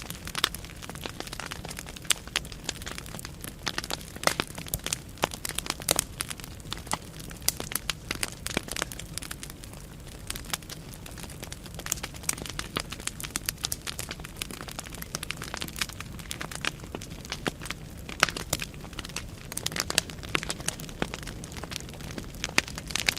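Firewood burning in a fireplace, crackling and popping with many sharp irregular snaps over a low steady rumble of flame.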